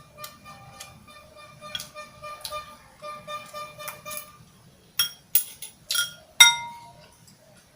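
Tableware clinking: five sharp clinks with a short ring, in quick succession, the last the loudest. Before them, faint background music.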